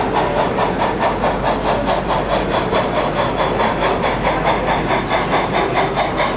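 Model railway train running on an exhibition layout, with a fast, even, steady beat.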